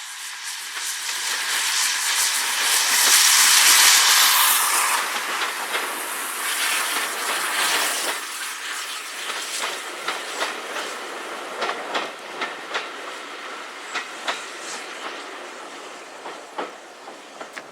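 A train passing close by on a heritage railway: a rushing hiss that builds to its loudest about four seconds in, then the wheels clicking over the rail joints, the clicks growing sparser and fainter as it goes away.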